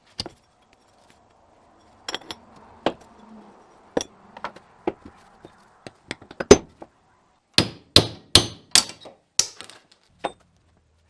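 Sharp metal knocks and clinks from scrap diaphragm pump parts being worked apart, scattered single hits followed by a quick run of about five heavier strikes near the end.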